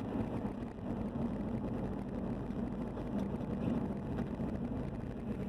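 Steady driving noise of a car: engine and road rumble, with no impact.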